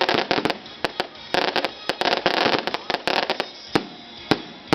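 Fireworks going off: quick crackling volleys of sharp bangs in clusters, then a few single bangs spaced out near the end.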